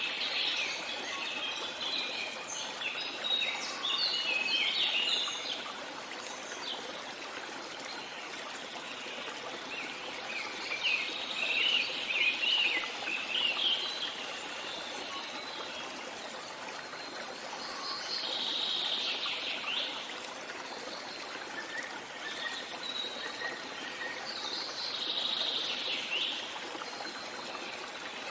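Stream trickling steadily, with songbirds singing in four bouts of rapid chirps: at the start, about ten to fourteen seconds in, and two shorter phrases later.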